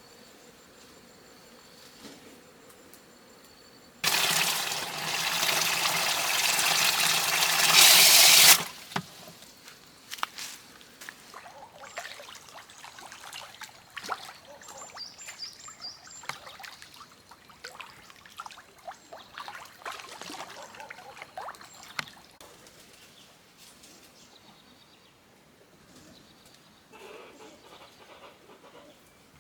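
Water pouring in a heavy stream for about four seconds, growing louder, then stopping suddenly. Scattered small clicks and rustles follow for several seconds.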